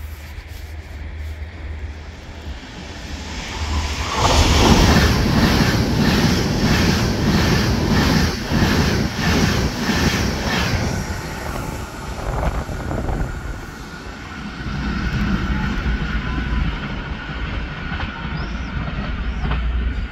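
Train passing through a station. Its rumble swells about four seconds in, and for about seven seconds the wheels clack over the rail joints in an even beat of roughly two a second. The sound then eases back to a lower rumble.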